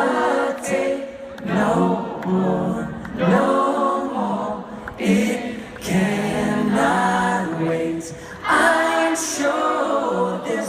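A group of voices singing together in harmony, a cappella, in phrases of a second or two with short breaks between them.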